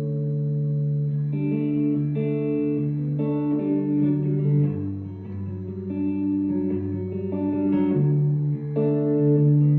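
Instrumental opening of a live band song: electric guitar picking a run of notes over held low notes. The picked notes come in about a second in, and the low note drops about halfway through and returns near the end.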